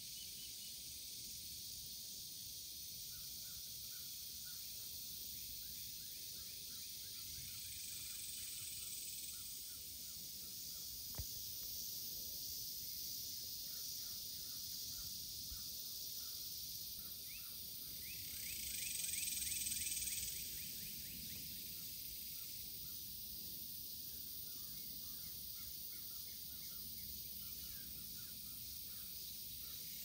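Birds calling in short repeated notes over a steady high hiss, with a louder burst of calls about two-thirds of the way through.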